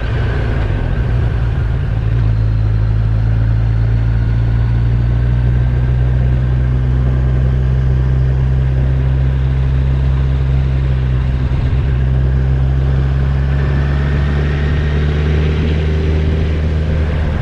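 Kawasaki Z1000SX inline-four motorcycle engine running at a steady cruising speed, a constant low drone with wind noise over it; the pitch settles a little higher about two seconds in, then holds.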